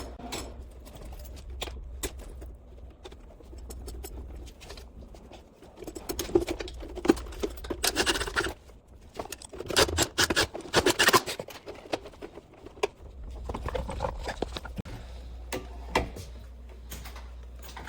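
Hands reconnecting electrical wires at a water heater: scattered clicks, scrapes and rustles of wire and hand tools, coming in several busier bursts over a steady low hum.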